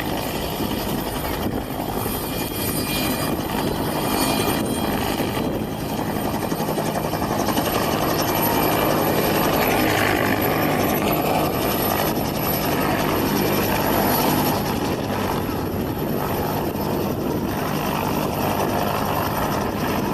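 Westland Whirlwind helicopter landing: its rotor and engine make a steady, dense noise that grows louder through the middle of the approach and then eases slightly.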